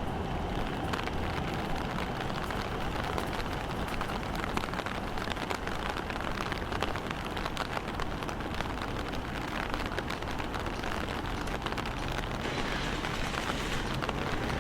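Rain falling, with many small drops ticking close to the microphone over a steady low rumble.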